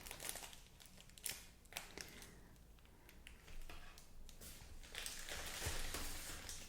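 Faint handling sounds: a few light clicks and taps, then a soft hissing rustle that swells for a few seconds near the end.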